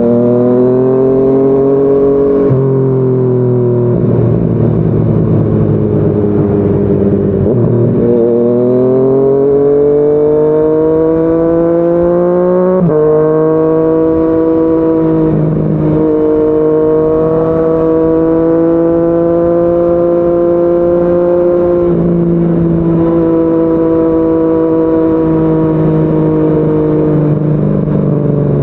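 Yamaha MT-09's three-cylinder engine through a Yoshimura R55 slip-on exhaust, heard on the move: revs climb, drop sharply with a gear change, sag and climb again, then hold nearly steady while cruising.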